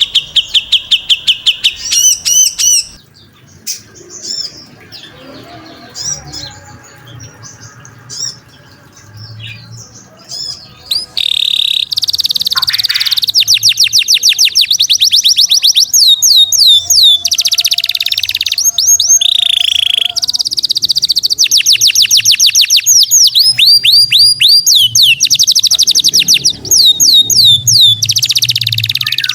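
Songbird singing in rapid-fire trills of fast repeated high notes. After a softer stretch of scattered chirps, from about eleven seconds in, come long, loud runs broken by short pauses.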